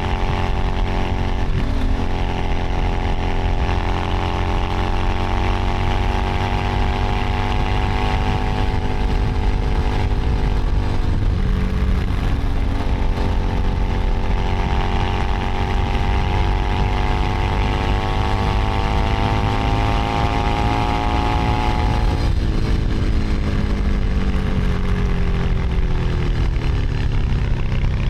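Keeway SCR 250V motorcycle engine and exhaust under way, the engine note climbing with the throttle. It dips about 12 seconds in and again about 22 seconds in, then falls away near the end, over a steady low wind rumble.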